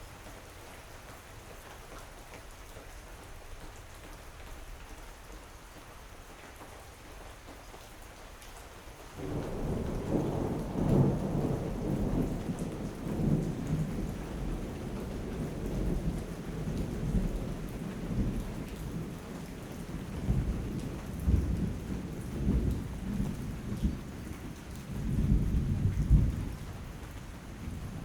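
Steady rain falling, then about nine seconds in a thunderclap breaks in and rolls on as a deep rumble that swells and fades several times, loudest near the end, over the continuing rain.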